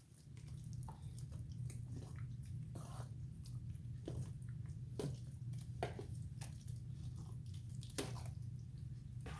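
A spoon stirring and folding a thick, wet cornbread-and-chicken dressing mixture, with soft squelches and scrapes every second or two. A steady low hum runs underneath.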